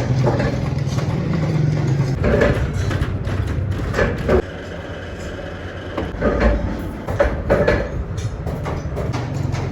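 Workshop noise: a steady low machine hum with irregular sharp knocks and clatters.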